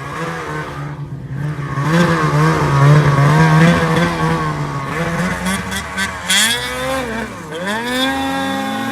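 Ski-Doo Summit 850 snowmobile's two-stroke engine revving hard under throttle, its pitch rising and falling as the throttle is worked. About seven and a half seconds in it drops sharply, then climbs again.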